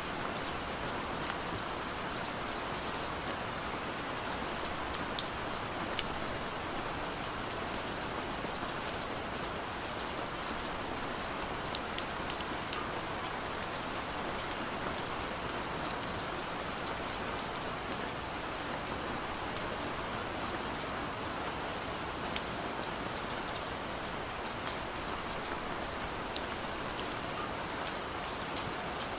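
Steady gentle rain falling, a constant hiss with many small scattered drop ticks throughout.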